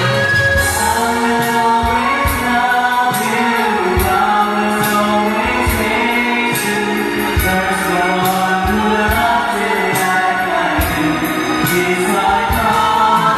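A pop ballad sung live with band backing. The melody is sung over a steady beat of drum hits and cymbal strikes.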